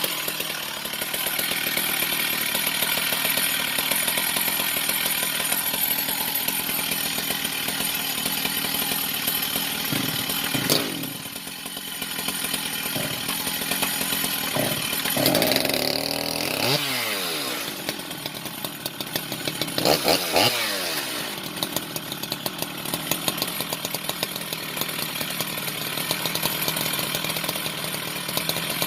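Stihl 044 AV two-stroke chainsaw with a modified, piped muffler running at high idle, its engine revved up and let back down a few times through the middle.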